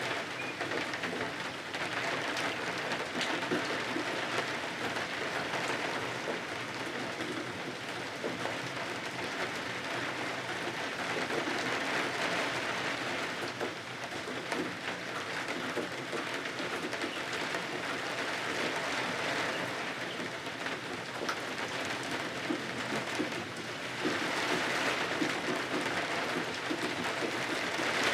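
Steady rain on a cottage's windows: a dense, even hiss with scattered individual drops, swelling slowly and growing a little louder near the end.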